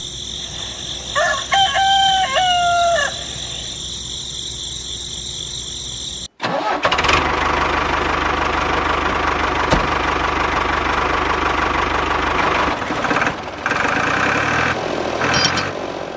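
A rooster crows once over a steady chorus of crickets. After an abrupt cut, a small motor-driven machine runs loudly and noisily, changing pitch a couple of times near the end.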